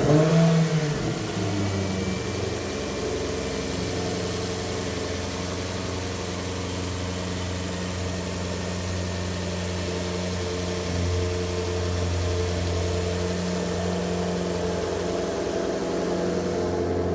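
2010 Maserati Quattroporte Sport GTS 4.7-litre V8 on a cold start: it flares loudly as it catches, then settles into a steady, fast cold idle that gets slightly louder about 11 seconds in.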